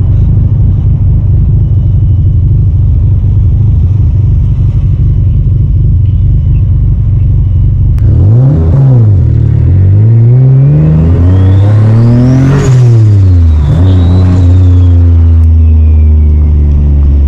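Turbocharged Infiniti G35 coupe's VQ35DE V6, heard from inside the cabin. It drones steadily and blips once about eight seconds in. Then it pulls on part throttle while the turbo spools up with a rising whistle. The revs drop and climb once more before falling back to a steady drone, and the whistle dies away with them.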